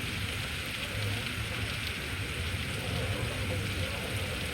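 Very heavy rain pouring down in a steady, dense hiss, with a low rumble underneath.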